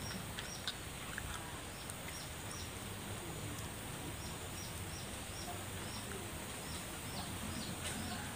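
A bird calling a run of short, high, falling chirps, about three a second, which stops for a few seconds partway and then starts again, over a steady hiss of outdoor background noise.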